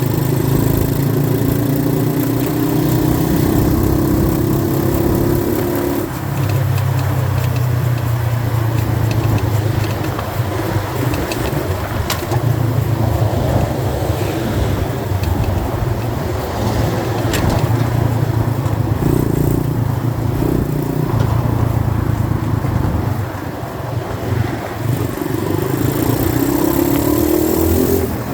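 90cc dirt bike engine running under way, its pitch climbing as it revs through the first few seconds, dropping suddenly at about six seconds, and rising again near the end.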